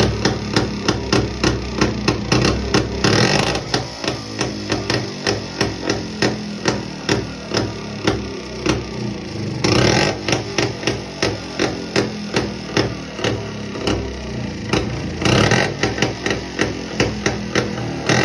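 Jawa 250 single-cylinder two-stroke motorcycle engine running at a slow idle with an even knocking beat, about three or four a second. It briefly revs up about three, ten and fifteen seconds in.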